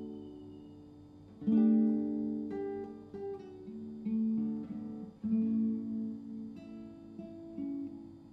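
Acoustic guitar music: chords strummed about once a second, each ringing out and fading before the next.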